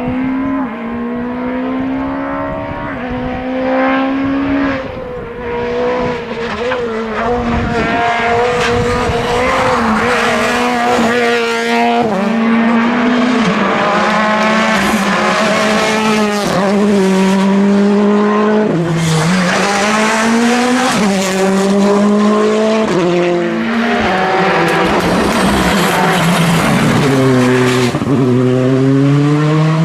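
Rally car engine revving hard, its pitch repeatedly climbing through the gears and dropping sharply at each shift or lift.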